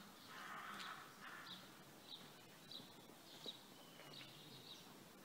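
Faint bird calls: a crow cawing harshly twice in the first second or so, then a small bird's short high chirps repeating about twice a second.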